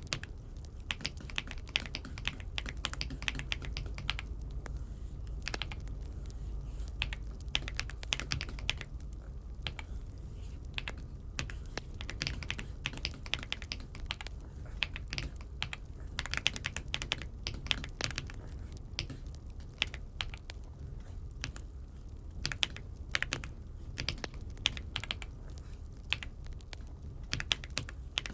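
Typing on an Aula F75 75% mechanical keyboard: irregular runs of crisp key clicks with brief pauses, over a steady low hum.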